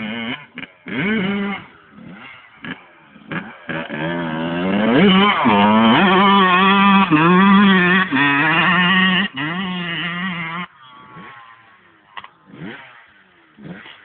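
Two-stroke motocross bike engine revving: short choppy blips at first, then climbing steeply to high revs about five seconds in and holding there with a wavering pitch, before the throttle is shut off and the sound fades away in the last few seconds.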